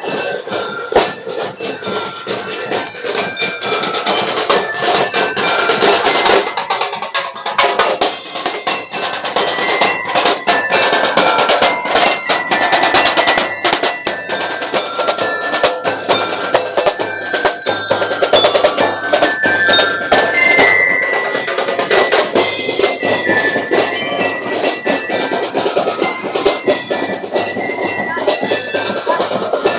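Street-dance percussion band playing loud, fast, continuous drumming on snare and bass drums, with short held melody notes sounding over the beat.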